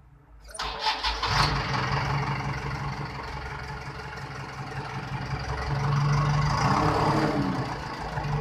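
JCB 5000 cc four-cylinder diesel engine being started: the starter cranks about half a second in, the engine catches within a second and settles into a steady idle, running a little louder near the end.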